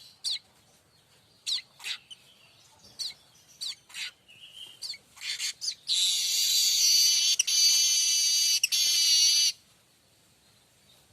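Streaked weaver (manyar kembang) singing. It gives scattered short, sharp chirps, then from about six seconds in a loud, dense rasping trill lasting about three and a half seconds, broken twice, before stopping.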